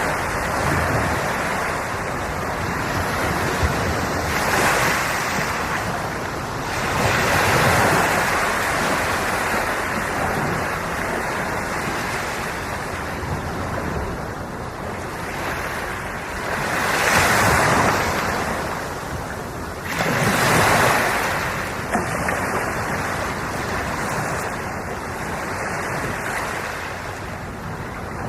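Ocean waves washing onto the shore: continuous surf, swelling into louder breaks about every few seconds, most strongly around 5, 8, 17 and 21 seconds in.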